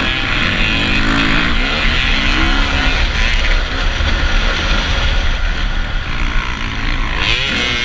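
Motocross bike engines revving, their pitch rising and falling several times over a dense, steady rumble.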